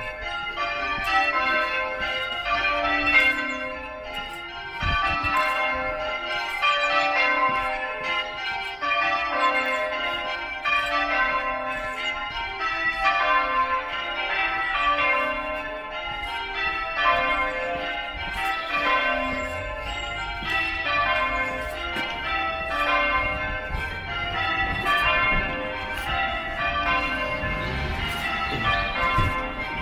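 Church bells being change-rung: several bells struck one after another in quick succession, the ringing sequence repeating over and over.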